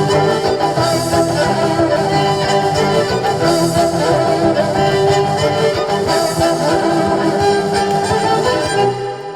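Band music with violin playing sustained notes, the final chord cutting off about nine seconds in and ringing away.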